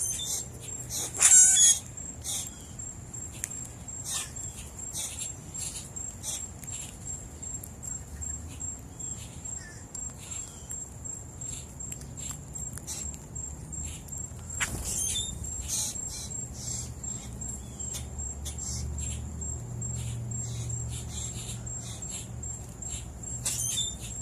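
Birds chirping and calling in short, scattered notes over a steady, pulsing high-pitched insect trill, with a louder call about a second in and another just past the middle.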